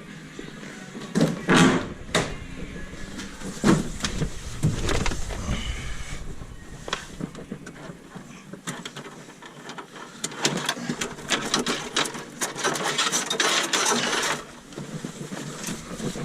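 Metal tools and car parts clinking, knocking and rattling as they are handled, with a few louder knocks in the first few seconds and a dense run of rapid clicks and rattles near the end.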